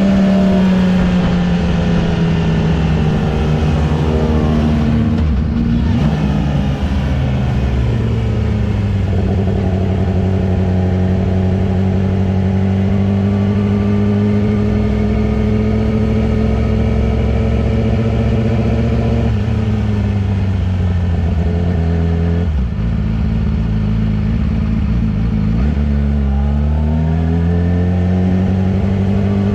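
Yamaha R6's inline-four engine running at speed. Its pitch falls over the first few seconds as the bike slows, holds fairly steady through the middle, drops again about two-thirds through, and rises near the end as it accelerates.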